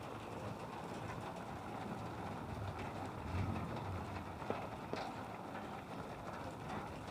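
Flooded-street ambience: steady outdoor noise with a low rumble that swells about three and a half seconds in, and two short knocks about a second later.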